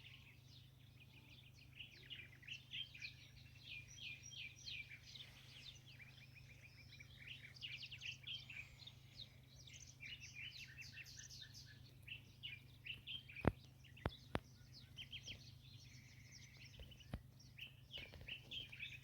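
Faint birdsong: several small birds chirping and twittering continuously in quick, high notes. A few sharp clicks come in the second half, three close together and one a few seconds later, over a faint steady low hum.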